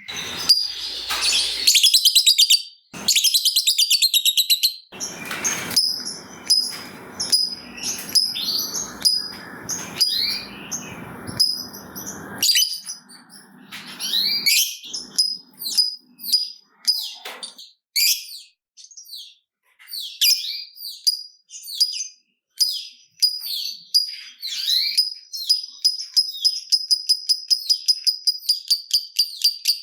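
Lovebirds calling in quick high-pitched chirps, with a long harsh rattling chatter (the 'ngekek') in the middle. Near the end comes a fast even run of ticking chirps, about five a second. This is a bait recording meant to stir other lovebirds into singing.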